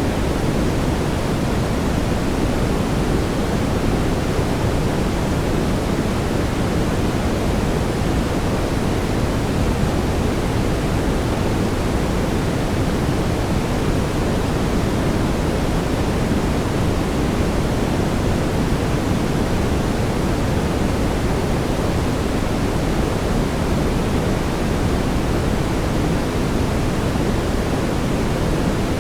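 Steady brown noise: an even, deep rushing hiss, strongest in the low end, without changes.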